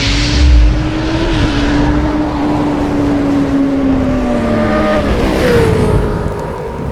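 Suzuki Gixxer 155's single-cylinder engine running, its pitch sagging slowly as the revs ease off, with a second, higher tone falling about five seconds in.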